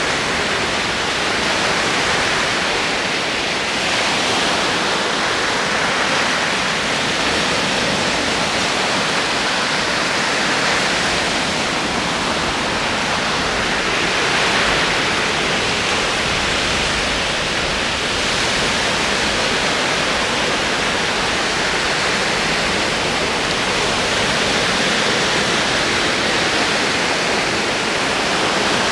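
Ocean waves rolling onto a shore, a steady wash of surf that swells gently every few seconds.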